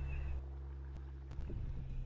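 Jeep engine and drivetrain droning low and steady while crawling along a dirt trail, with a few short high whines in the first half-second and a couple of light clicks midway.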